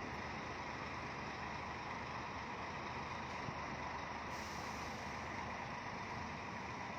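Diesel coach bus engines idling, a steady even running sound.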